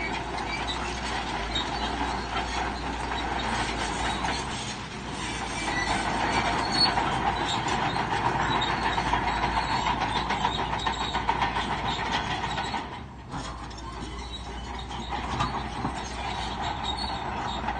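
Shantui crawler bulldozer working, its diesel engine running under a rapid metallic clatter and squeal of the steel tracks. The noise grows louder a few seconds in and drops off briefly about two-thirds of the way through.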